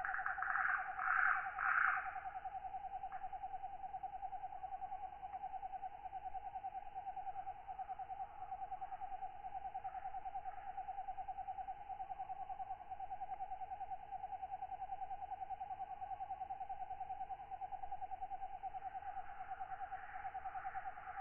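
Katydids calling: a steady, rapidly pulsing trill holds one pitch throughout, with louder, raspier calls higher up in the first two seconds and again near the end.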